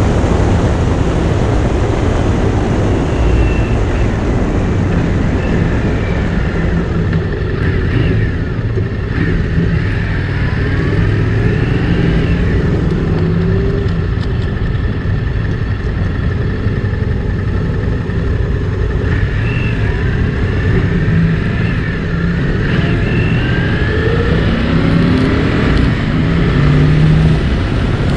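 Motorcycle engine running steadily under way, with heavy road and wind noise and a few gentle rises and falls in pitch.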